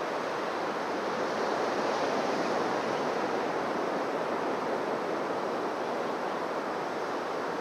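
Surf washing steadily on a beach, a continuous rush that swells slightly about two seconds in.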